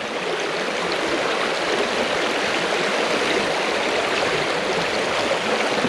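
Rain-swollen creek rushing over rocks: a steady, even noise of fast-flowing water.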